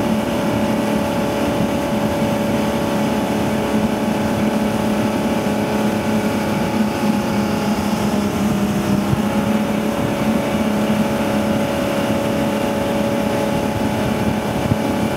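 Ski tow boat's engine running at a steady high speed, with the rush of water and wind over the hull.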